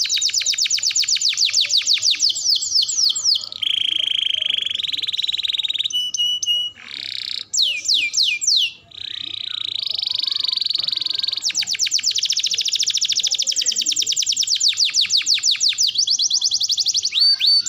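Domestic canary singing a long continuous song: runs of fast repeated downward-sweeping notes alternating with buzzy rolled trills, broken by brief pauses about seven and nine seconds in.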